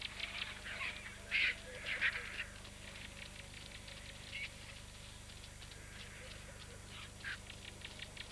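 African wild dogs calling with short high-pitched squeaky calls, the loudest in the first two to three seconds, then fainter calls now and then.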